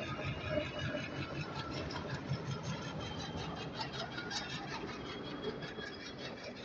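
Diesel locomotive engine running as the locomotive moves slowly past close by, with a fast, even ticking through the middle. The passenger coaches roll past after it.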